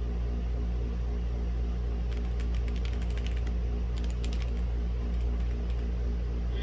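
Typing on a mechanical keyboard with red linear switches (Womier/Gamakay K87): runs of quick keystrokes start about two seconds in, with a short pause partway through, over a steady low hum.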